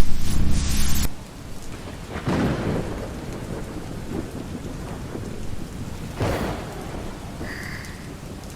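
Steady heavy rain with thunder rumbling twice, after a louder rumble with a low hum that cuts off about a second in.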